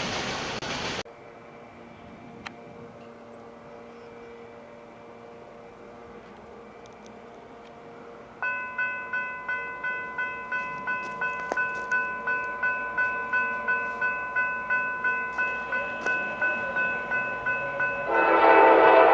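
Railroad crossing bell ringing in even strokes, about two a second, starting abruptly about eight seconds in after a quiet stretch. A short rush of wind noise cuts off about a second in, and a much louder sound comes in near the end.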